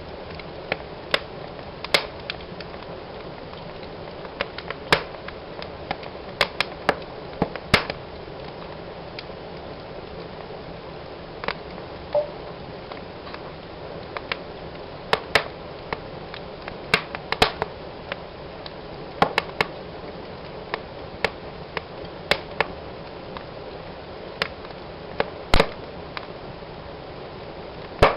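Wood fire burning in a fireplace: a steady low hiss with irregular sharp crackles and pops from the burning logs.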